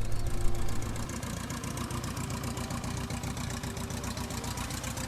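Piper J-3 Cub's small piston engine running steadily with a rapid, even beat. It is louder for about the first second, then settles to a steady run.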